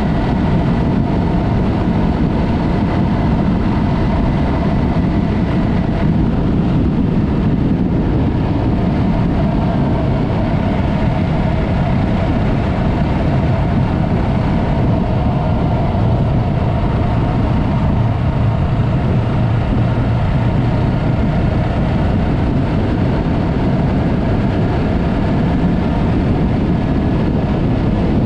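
Yamaha MT-03 motorcycle's parallel-twin engine running steadily through a Mivv aftermarket exhaust while riding, its pitch shifting only slightly, under a continuous haze of road and wind noise.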